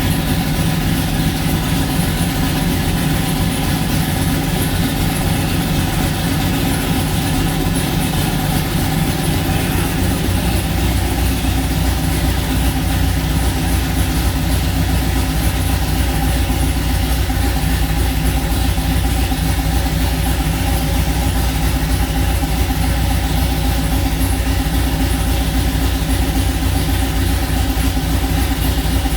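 1955 Chevrolet Apache pickup's engine running steadily at idle on its first start. About ten seconds in its low note drops and settles.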